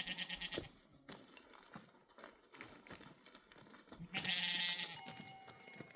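Goats bleating: a wavering bleat that fades out about half a second in, and a second, louder bleat about four seconds in that lasts about a second.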